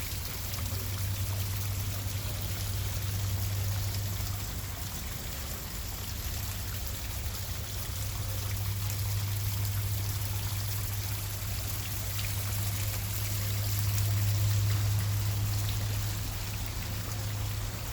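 Small waterfall spilling into a swimming pool, a steady splashing rush, with a low hum underneath that swells and fades twice.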